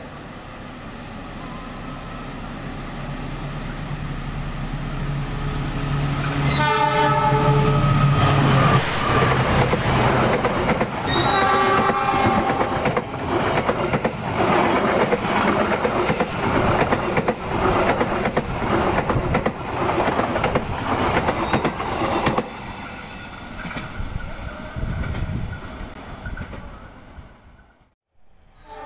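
Locomotive-hauled passenger train approaching and passing through the station at speed. Its engine grows louder as it nears, and its horn sounds two blasts of several tones. A long run of clickety-clack from the wheels on the rail joints follows as the coaches go by, then dies away, and the sound cuts off abruptly near the end.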